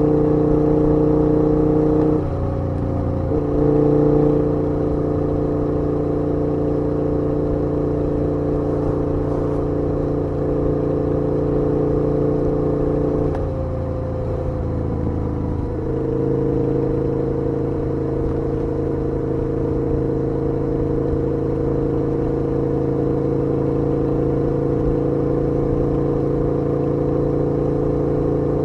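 KTM 1290 Super Duke R's V-twin engine running steadily under way, heard from the rider's seat. The engine note breaks up briefly twice, about two seconds in and again around fourteen seconds, then settles back to a steady tone.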